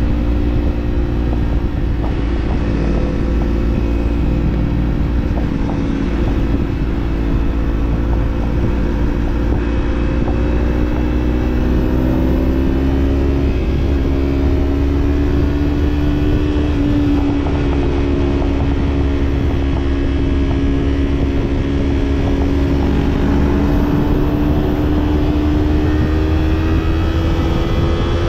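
Kawasaki parallel-twin motorcycle engine and exhaust running at a steady cruise under rushing wind and road noise. The engine note holds fairly even and climbs slowly through the second half.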